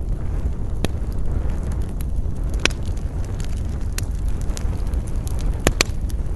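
Wood campfire crackling, with scattered sharp pops, the loudest about a third of the way in and a close pair near the end, over a steady low rumble of wind.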